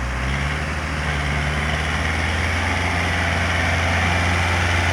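Kubota MU4501 tractor's diesel engine running steadily, its revs picking up about half a second in and then holding.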